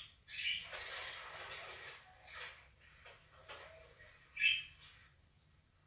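Parrots chirping and squawking in short, scratchy calls that thin out, with one brief clear chirp about four and a half seconds in.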